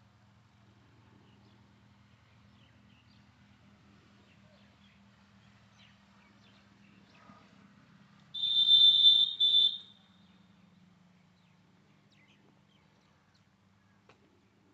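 Peacock giving one loud, shrill call about eight seconds in, lasting about a second and a half with a brief break near the end. Before it there is only a faint low background.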